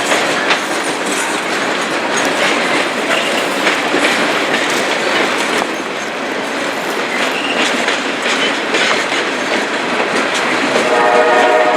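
A train's cars rolling past at close range, a steady rumble with wheels clicking over rail joints. A multi-note train horn starts sounding near the end.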